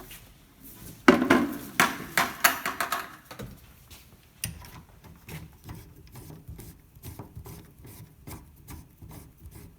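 Hose couplings and valve fittings being handled on a tankless water heater as a hose is disconnected and a garden hose threaded on: a burst of knocking and rubbing about a second in, then a run of light clicks.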